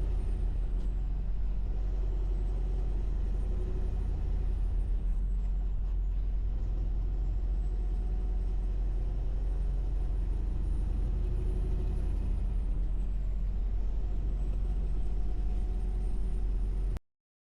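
Steady low rumble of a semi-truck's engine and road noise, heard from inside the cab while cruising on the highway; it cuts off suddenly near the end.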